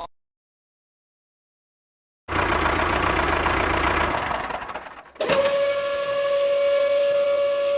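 Silence for about two seconds, then a loud, rough engine-like mechanical noise that fades away. A little after five seconds a steady, high-pitched tone with overtones cuts in and holds.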